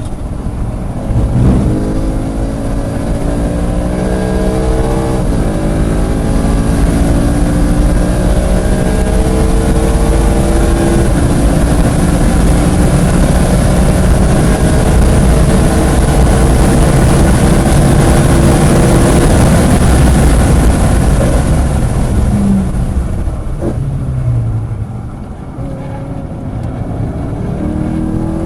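Car engine heard from inside the car at full throttle, pulling up through the gears with two upshifts, then a long flat-out stretch with heavy wind and road noise. Near the end the driver lifts off, and the engine comes back on power.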